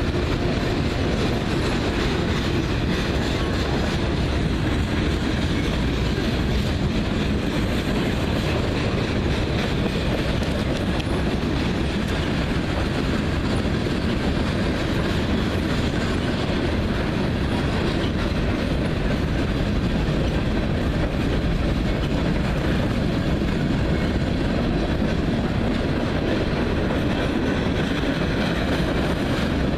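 Freight train rolling steadily past at close range, its cars running by without a break.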